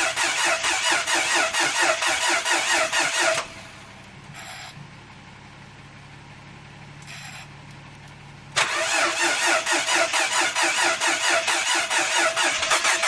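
A Mitsubishi FTO's 6A12 V6 being cranked over by its starter motor in an attempt to get it to fire, with a fast, even rhythmic chug. The cranking stops abruptly a few seconds in, leaving only a faint low hum for about five seconds. It then cuts straight back in and carries on.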